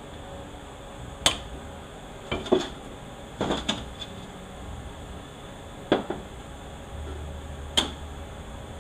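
Metal parts of a 4L80E automatic transmission clinking and knocking as they are handled during teardown, with the snap ring coming off and parts being lifted out. There are several sharp clanks, irregularly spaced, some in quick pairs.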